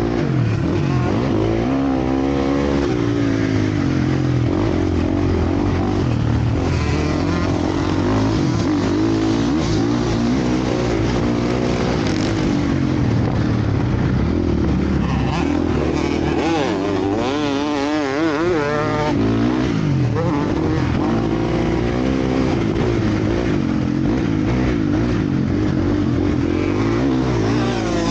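Several motocross bikes racing around the track, their engines revving up and down continuously and overlapping, with one bike revving up and down quickly close by about two thirds of the way in.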